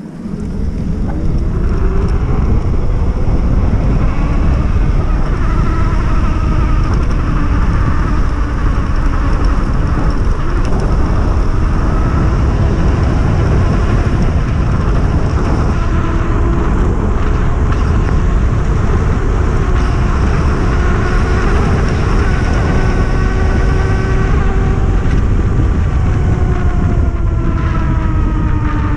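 Electric hub motor of a 72 V enduro ebike with a Fardriver controller whining under power, its pitch rising as it speeds up in the first few seconds and falling near the end as it slows. Heavy wind rumble on the microphone from riding speed runs under it.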